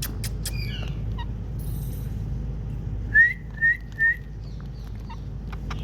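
Indian ringneck parakeet giving three short rising whistles in quick succession about three seconds in, after a few quick clicks at the start.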